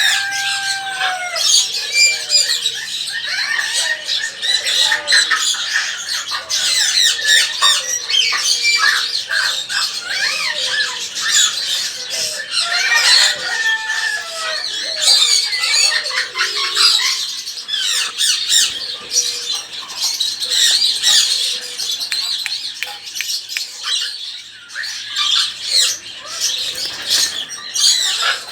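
Many pet birds calling together: a dense, continuous chorus of overlapping chirps, whistles and squawks.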